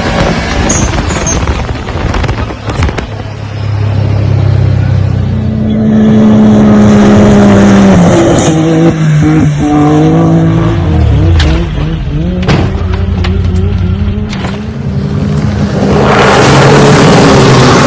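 Off-road vehicle engines running and revving, their pitch rising and falling, with a few sharp knocks midway and a loud rushing noise near the end.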